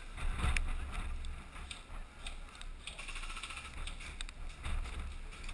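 Low rumble of wind and handling noise on the microphone, with a scattered handful of light clicks and rustles.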